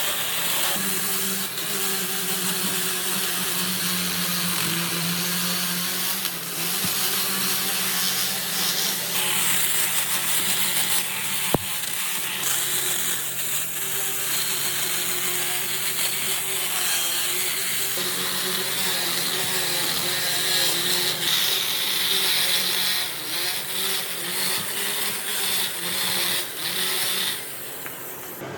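An electric power tool runs steadily, a motor hum under a hiss of wood being worked. There is one sharp click about a third of the way in, and it quietens near the end.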